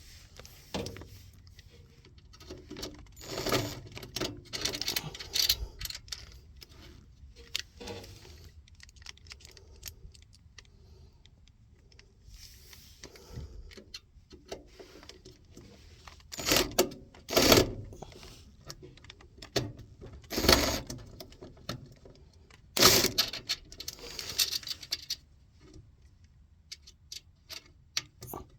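Irregular metallic clinks, clicks and rustling from hand work on a furnace while a replacement transformer is fitted and its wires are handled, with a few sharper knocks a little past the middle.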